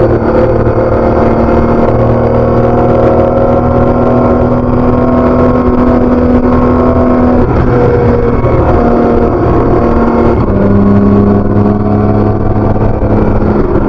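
BMW K1600B touring motorcycle's inline-six engine through its stock exhaust, running steadily under way. Past the middle the engine note breaks and shifts a few times, then settles at a lower pitch.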